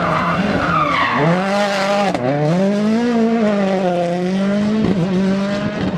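Rally car engine running hard, its pitch climbing, dropping sharply about two seconds in as it shifts or lifts, then climbing again and holding at high revs.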